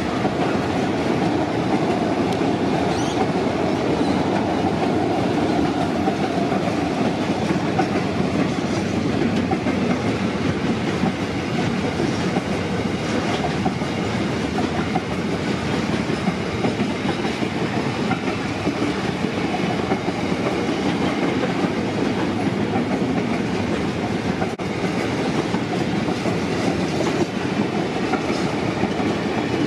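Standard-gauge freight train of empty container flat wagons passing close by: the wagons' steel wheels running on the rails with a steady rolling noise and fine, fast clatter.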